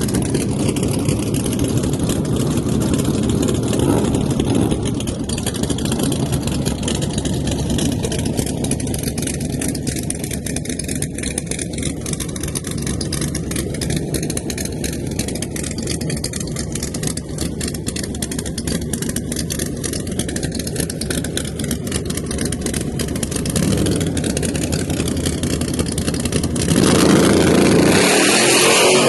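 Drag car engine running with a rapid pulsing beat, the sound building and then growing clearly louder near the end.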